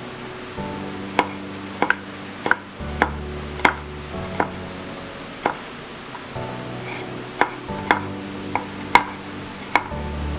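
A knife cutting garlic cloves on a cutting board: about a dozen sharp, irregular strikes, under steady background music.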